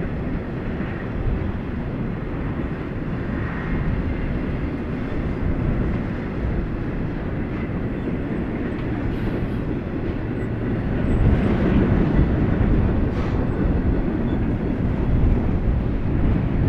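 Double-stack intermodal freight train's well cars rolling past: a steady rumble of steel wheels on rail, growing a little louder about eleven seconds in.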